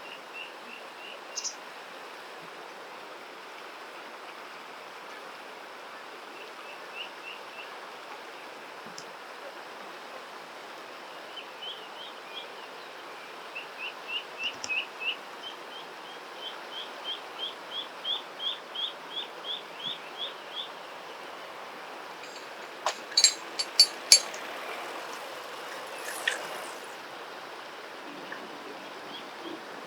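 Eastern spot-billed ducklings peeping over and over: lost ducklings calling for their absent mother, the peeps coming in short groups and then in a long even run of about three a second. Steady rushing water underneath, and a few sharp loud clicks near the end.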